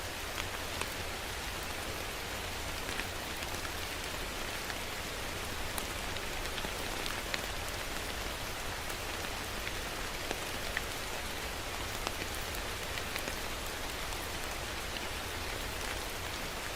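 Steady rain falling on a surface, with individual drops ticking here and there over the even hiss.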